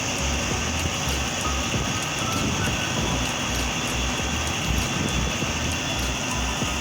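Air conditioner outdoor unit running under test after a new condenser fan motor was fitted: a steady mechanical drone with a regular low throb about twice a second.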